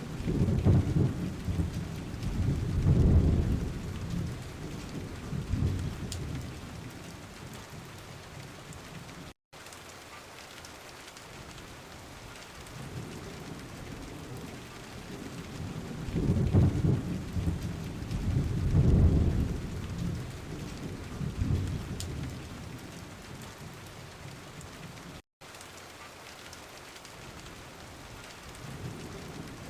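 Steady rain falling, with thunder rumbling in low, long rolls twice, at the start and again about 16 seconds in. The sound cuts out for an instant twice.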